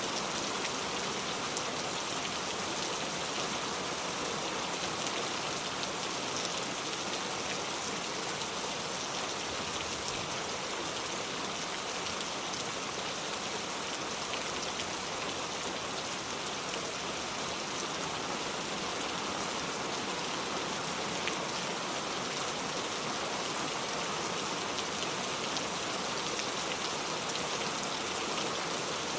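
Steady rainfall: an even hiss of rain with scattered drops ticking on surfaces.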